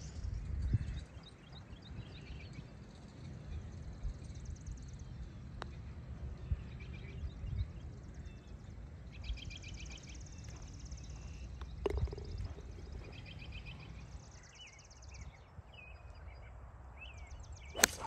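Several songbirds singing: trills and series of quick repeated chirps, with a single sharp knock near the end.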